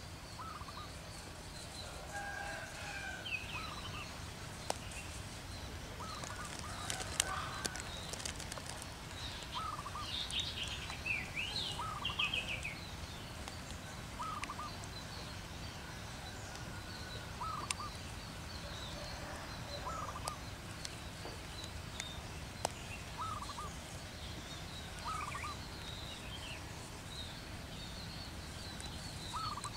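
Wild birds calling outdoors. One bird repeats a short call about every two seconds, and higher chirps from other birds cluster about a third of the way in. A few sharp clicks stand out over the calls.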